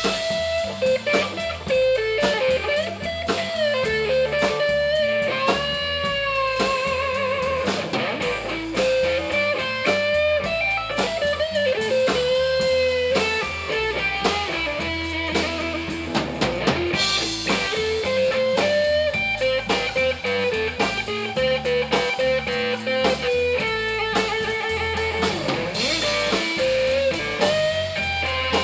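Blues-rock band playing an instrumental break: a lead electric guitar solo of bent notes with vibrato over drum kit and bass.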